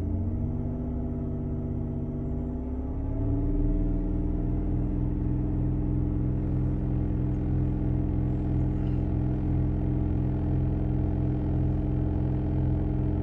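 Saturn Aura's 3.5-litre V6 engine running at raised revs. The pitch rises over the first three or four seconds as it is brought from about 1,600 to about 2,500 rpm, then holds steady, to warm the engine and get the thermostat opening.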